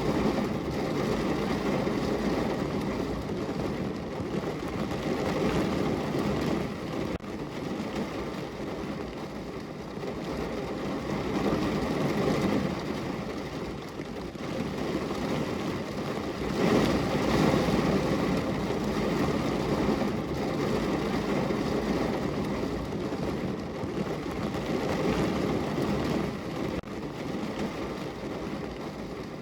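Heavy rain drumming on a parked car's roof and windows, heard from inside the car as a dense, low patter that swells and eases in waves.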